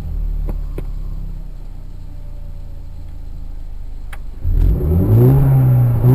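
Peugeot RCZ R's 1.6-litre turbocharged four-cylinder engine idling, with a few light clicks. About four and a half seconds in, it is revved hard with the car standing still: the pitch rises, holds briefly and rises again.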